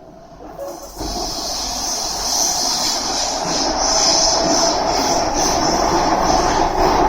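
Cabin noise of a Kawasaki C151A metro train running on the line, jumping up sharply about a second in and growing louder, with a high band of wheel-on-rail noise.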